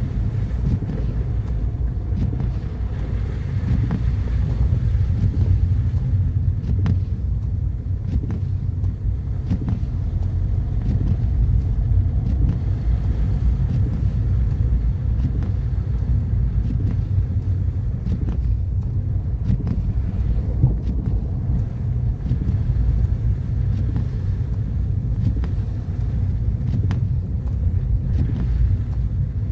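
Car driving at a steady pace, its engine and tyre noise making a continuous low rumble, with a few faint clicks.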